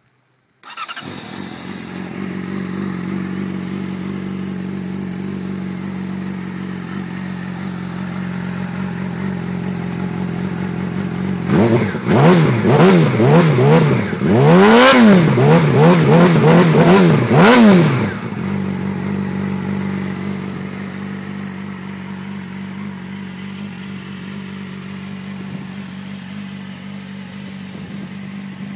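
Yamaha R6's inline-four engine, breathing through a full Yoshimura exhaust with stainless steel headers, starting about a second in and settling into a steady idle. Midway it is revved in a run of quick throttle blips for about six seconds, then drops back to idle.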